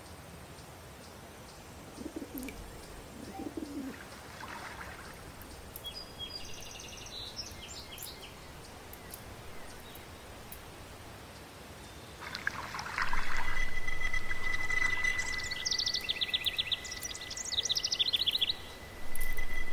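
Outdoor birdsong: two short low calls about two and three seconds in, then quick high chirping trills from songbirds, repeated in the second half. About two-thirds of the way in, a steady high tone begins and the sound grows much louder.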